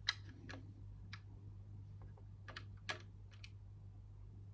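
Plastic Lego pieces clicking and tapping as they are handled and fitted, a scattering of faint, sharp, irregular clicks, the loudest about three seconds in.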